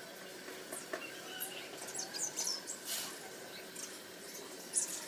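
Small birds chirping: scattered short, high-pitched chirps, a few of them sliding downward, over a faint steady background.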